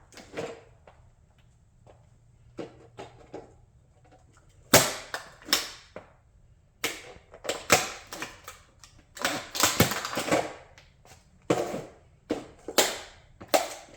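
A plastic model Audi race car being crushed, cracking and snapping under pressure. A few faint clicks come first, then loud sharp cracks from about five seconds in, coming thick and fast in the second half.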